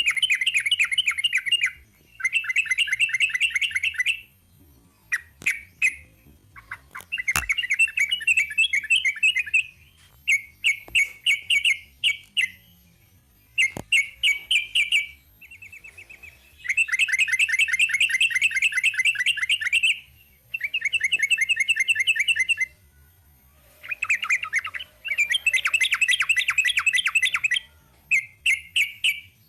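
Yellow-vented bulbul (trucukan) singing a long, rapid chattering song in the 'ropel' style. It comes in loud trilled phrases of one to three seconds, separated by short pauses, with a few sharp clicks between phrases.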